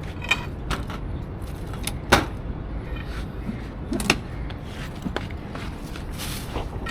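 Steady low rumble of street traffic, with a few sharp knocks and clicks, the loudest about two seconds in.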